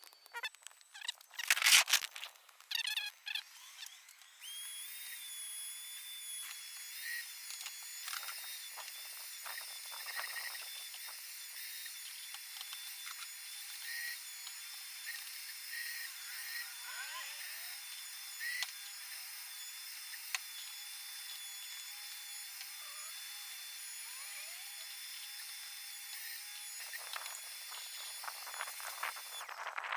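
Vacuum cleaner running with a steady high whine, with small rattles as debris is sucked up. It starts about four seconds in, after a few knocks and rustles, and cuts off near the end.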